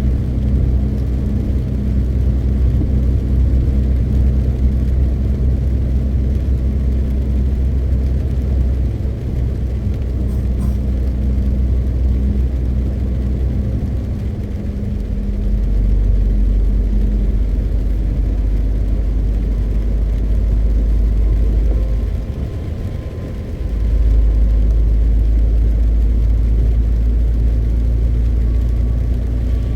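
MAN TGX 520 truck's straight-six diesel running on the road as a low, steady drone. Its pitch shifts a few times, and the level dips briefly about two-thirds of the way through before picking up again.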